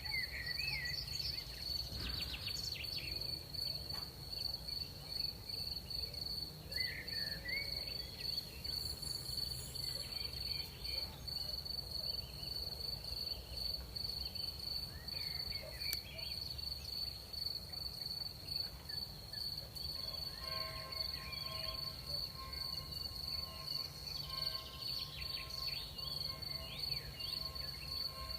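Crickets trilling in one steady, unbroken high-pitched tone over a low steady rumble, with short chirping calls scattered through it. A second, lower steady trill joins in about two-thirds of the way through.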